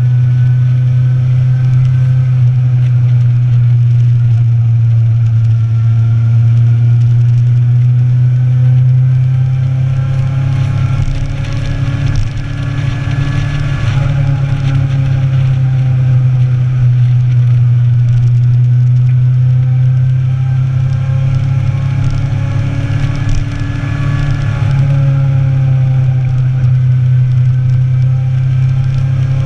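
Motorcycle engine running steadily while riding, with rushing noise over it; the engine note eases off briefly twice, around 11 and 23 seconds in.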